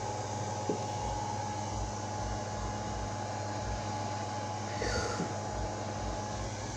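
Steady mechanical hum and hiss with a faint, even low throb, a small tick about a second in and a brief louder sound around five seconds in.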